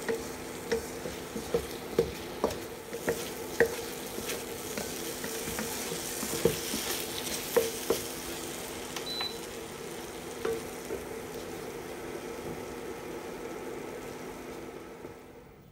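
Egg and tomato stir-fry sizzling in a nonstick wok while a wooden spatula stirs it, with sharp knocks of the spatula against the pan, most of them in the first eight seconds. The sizzle drops away near the end.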